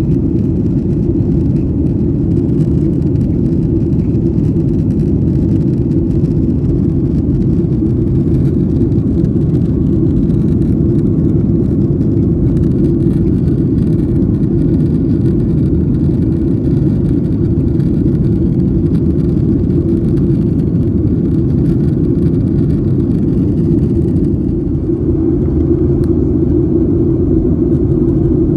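Steady, loud low rumble of a jet airliner's cabin noise: engines and airflow heard from a passenger seat, with a slight change in tone near the end.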